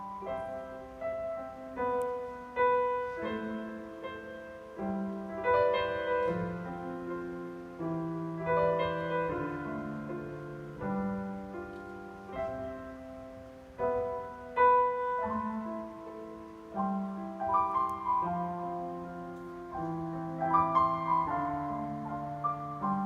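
Piano playing a slow, gentle ballad melody over chords, each note struck and then left to ring and fade.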